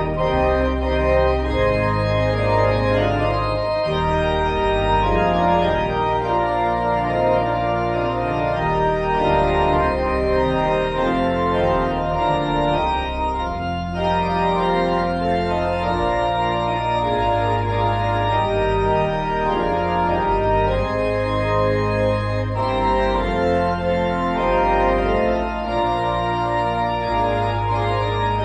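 Organ music: slow, sustained chords over a bass line that changes every second or two, with a brief break about halfway through.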